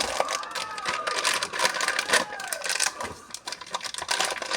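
Rapid, dense clicking and clattering of hard objects being handled, with a few short squeaky pitch glides about half a second in and again about two seconds in.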